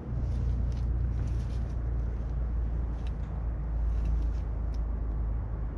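Low, steady rumble of a motorcycle on the move, starting and stopping abruptly.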